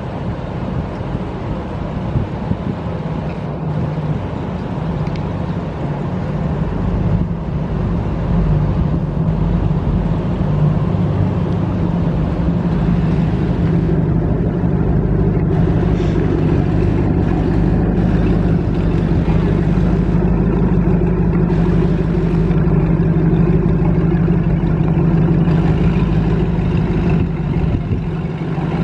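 Engines of a motor yacht running at low cruising speed: a steady low hum that grows louder over the first several seconds as the boat nears, then holds.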